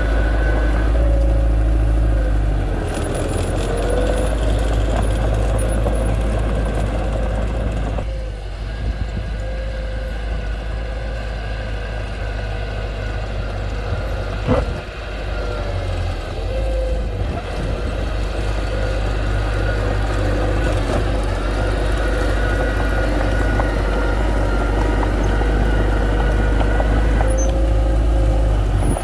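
Heavy diesel earthmoving machinery running steadily: a deep engine drone with a whine that wavers in pitch above it. One sharp knock about halfway through.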